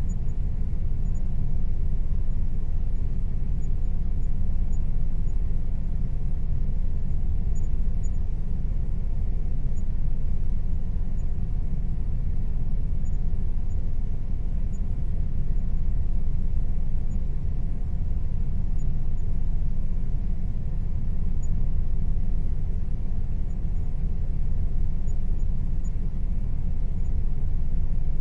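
Air conditioner running steadily, a constant low rumble with a faint steady hum over it.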